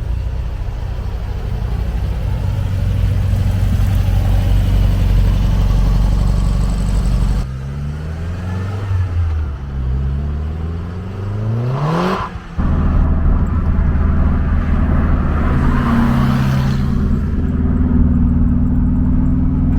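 Car engine running steadily, then revving up in several rising sweeps that cut off sharply about twelve seconds in, before settling back to a steady run.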